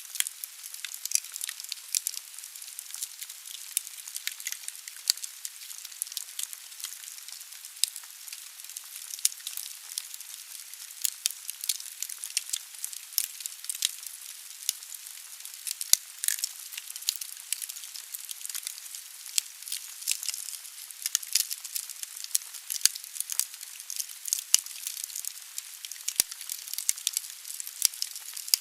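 Wood fire burning in a fireplace: logs crackling and popping irregularly over a steady soft hiss of the flames.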